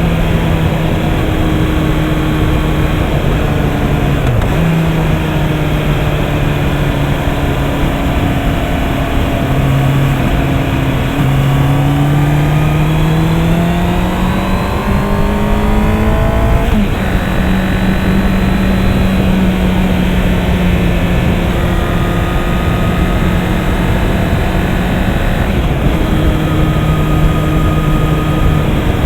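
Honda CB650R's 649 cc inline-four engine running under way, with a steady rush of riding wind. The note dips briefly about four seconds in, climbs steadily in pitch for about seven seconds around the middle as the bike accelerates, then settles and slowly drops.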